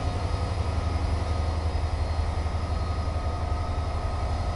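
Diesel freight locomotives running, a steady low rumble with faint steady tones above it.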